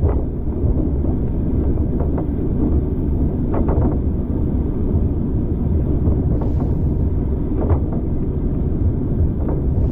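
Railway carriage running along the track: a steady low rumble of wheels on rail, with a few irregular clicks and knocks from the rails and carriage.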